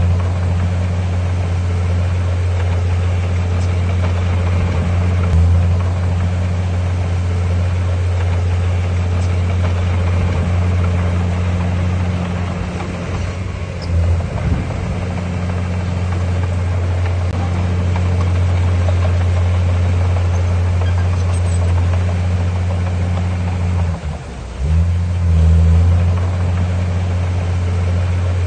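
Heavy diesel bulldozer engine running steadily under load with a deep, even hum. It dips briefly about fourteen seconds in, drops near the end and then picks up again.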